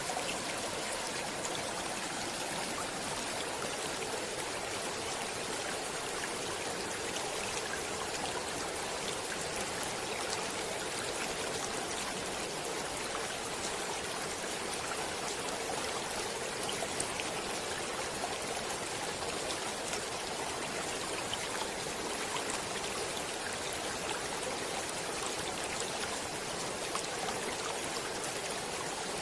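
A stream of flowing water, running steadily with a continuous rush and fine splashing.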